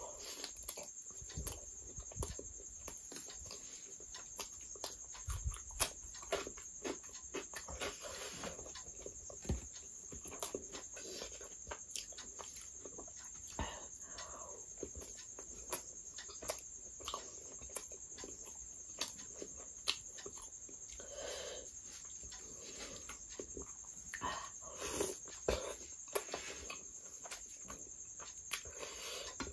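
Close-miked eating sounds: wet chewing and lip smacking on chicken curry and laccha paratha, with irregular small clicks and the soft tearing of the flaky bread by hand.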